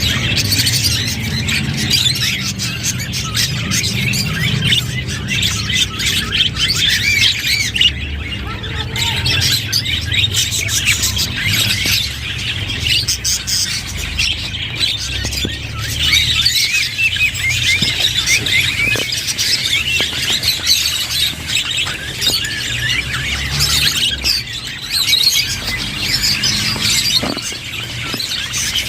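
A group of budgerigars chattering and warbling continuously, a dense mix of chirps, short squawks and warbled notes.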